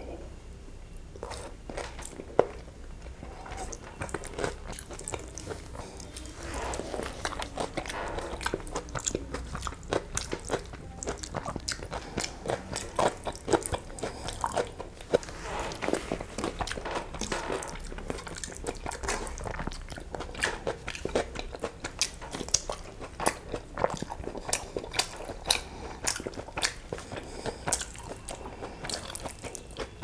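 Close-miked chewing of a mouthful of egg biryani, with many small wet mouth clicks at an irregular pace.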